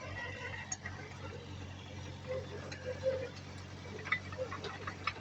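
Heavy earthmoving machine's diesel engine running steadily, with scattered light clicks and knocks over it.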